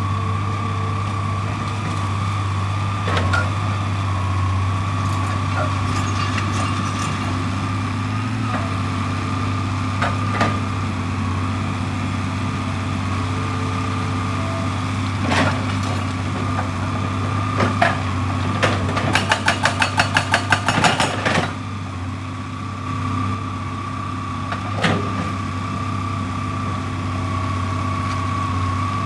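Heavy excavator's diesel engine running steadily with a constant whine, broken by scattered single knocks and, about nineteen seconds in, a rapid run of knocks at roughly six a second lasting about two seconds.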